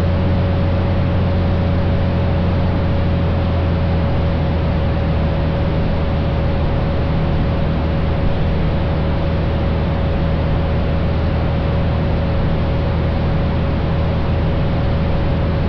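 Cabin drone of a 1956 Cessna 172's Continental O-300 six-cylinder engine and propeller, running steadily at reduced power in the landing pattern, with a faint steady high tone over it.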